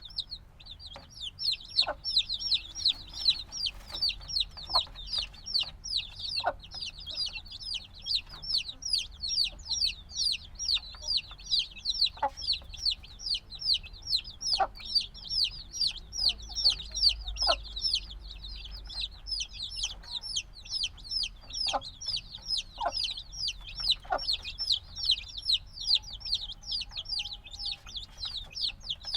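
A brood of chicks a few days old peeping nonstop, many short, high, downward-sliding chirps overlapping at several per second. This loud, insistent peeping is typical of young chicks that still need warmth.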